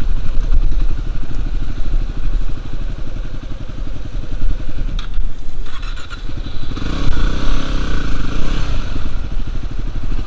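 Dirt bike engine running, revved up and down about seven seconds in as a bike is worked through a tight spot, with some clatter.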